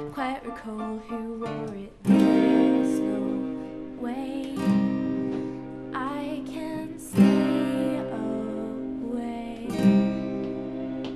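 A small band playing live: strummed acoustic guitar chords with a singing voice, the chords struck afresh about two, seven and ten seconds in.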